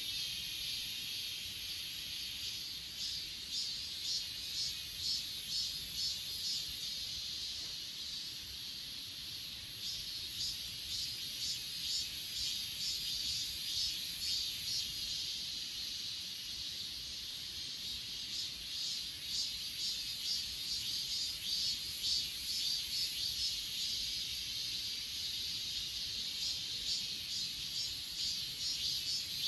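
A chorus of grass insects (crickets and their kin) chirping. One high, steady trill runs beneath bursts of fast, rhythmic chirping that swell and fade.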